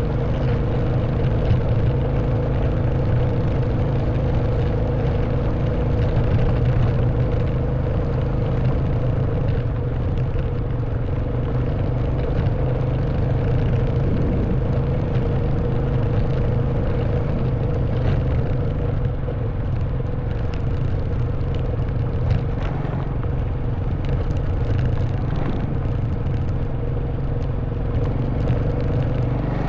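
Honda Wave 110cc single-cylinder four-stroke engine running steadily under way, with tyre and wind noise and a scatter of clicks and rattles from riding over a rough stone and dirt track, more of them in the second half.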